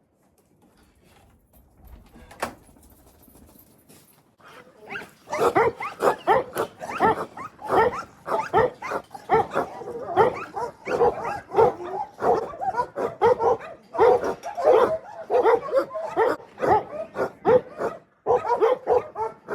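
Dog barking over and over in quick short barks, several a second, starting about four and a half seconds in after a quiet opening.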